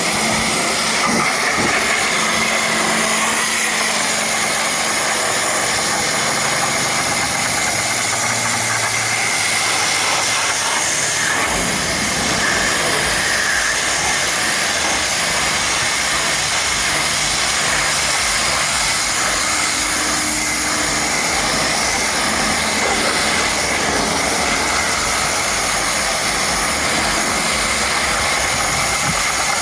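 High-pressure washer jet spraying water against a mud-covered truck, a loud, steady hiss. A low hum sits beneath it for the first dozen seconds.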